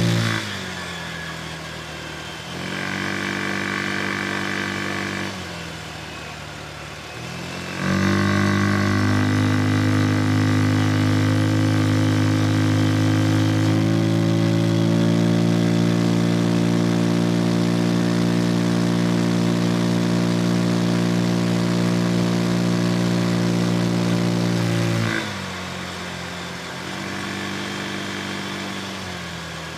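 Vespa Sprint 150 scooter's single-cylinder four-stroke engine, fitted with a full Malossi CVT kit, heard while riding. It drops off the throttle at the start and runs low for several seconds with a brief lift. About eight seconds in it opens up and holds a steady high drone for some seventeen seconds, stepping up slightly midway, then eases back to a low run near the end.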